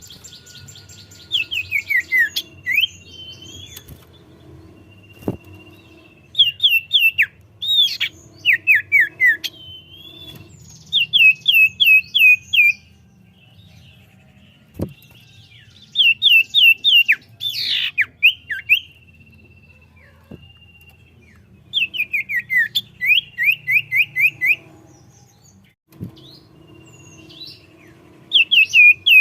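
Common iora (cipoh) singing hard. It gives repeated rapid trains of five to eight sharp chirps, each burst lasting about a second, with long thin steady whistles in between, over a low hum. A few faint clicks occur as well.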